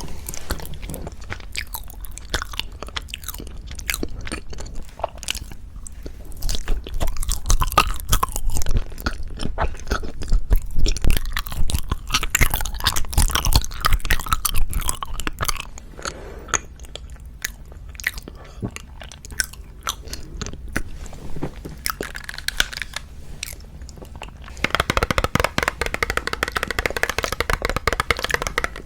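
Close-miked eating of wagashi, Japanese confections: biting and chewing with many small crunching clicks, busiest in the middle and again near the end.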